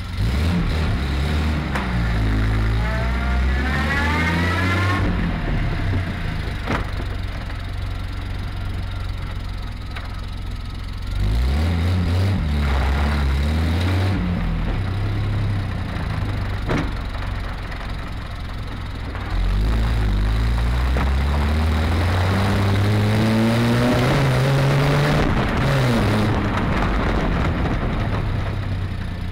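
1973 Triumph TR6's straight-six engine driving on the road, rising in pitch as the car accelerates in three long pulls, the pitch dropping back at each gear change.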